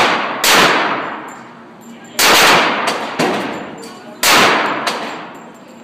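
Handgun shots being fired at a slow, steady pace: three loud shots about two seconds apart, with a couple of fainter shots in between. Each shot rings out and dies away over more than a second.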